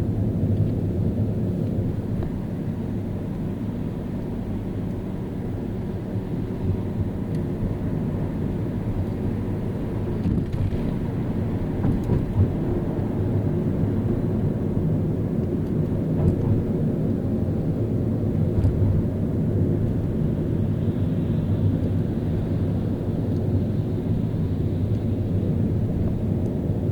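Car driving through city streets: a steady low rumble of engine and tyre noise, with a few brief light bumps.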